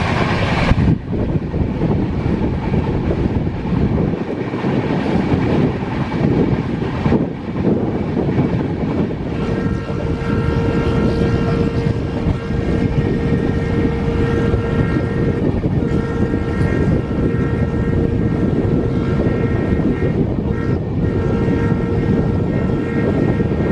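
Rajdhani Express passenger train running at speed: a steady rumble of wheels on rails, with a steady high-pitched whine joining in about nine seconds in.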